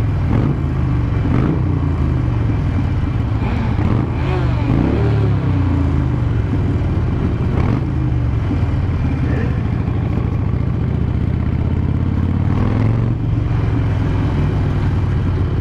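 Harley-Davidson Sportster 883's air-cooled V-twin engine running at low road speed, its pitch rising and falling a few times in the first five seconds as the throttle changes.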